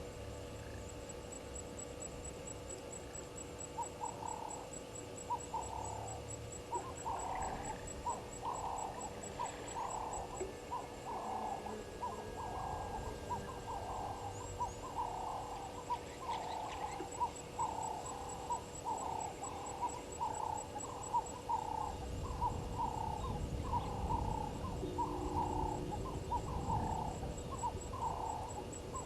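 A bird calling a long, steady series of short hoot-like notes, about two a second, starting about four seconds in. Behind it runs a faint, fast, high-pitched pulsing.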